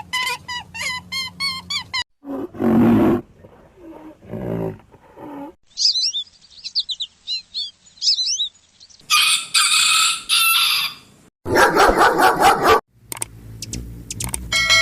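A series of short bird-call recordings spliced back to back, each cut off abruptly: repeated pitched chirps, a few loud low calls, a run of quick high twittering, harsh noisy calls, and near the end steady whistled notes.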